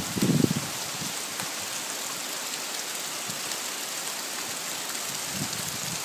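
Steady rain falling as a hailstorm ends, the hail almost stopped: an even hiss with a few scattered faint ticks of drops.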